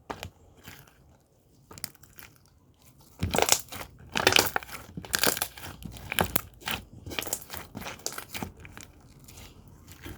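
Irregular crinkling and crunching noises in quick, uneven bursts, busiest from about three seconds in until near the end, after a few scattered clicks.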